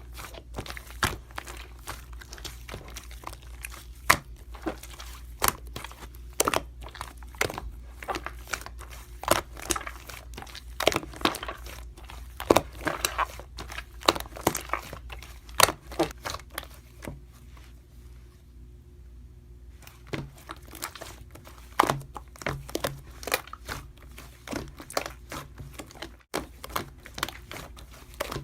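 Hands squishing and stretching slime, a steady stream of sharp crackling pops and clicks, with a quieter stretch about two-thirds of the way through.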